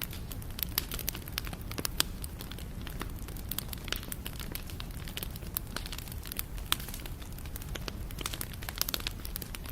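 Wood fire burning steadily, with irregular sharp crackles and pops over a low rumble; a few louder pops stand out.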